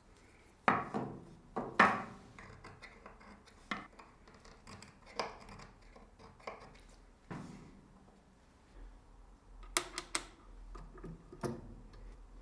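Steel parts and hand tools being handled on a workbench, with scattered metal clinks and knocks; the two loudest knocks come about a second in and just before two seconds, with another quick pair near the end.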